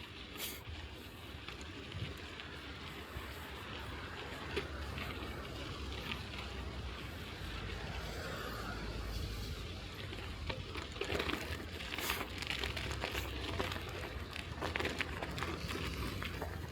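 Bicycle tyres rolling over snow-covered road, with scattered crunching clicks that come more often in the second half, over a steady low rumble.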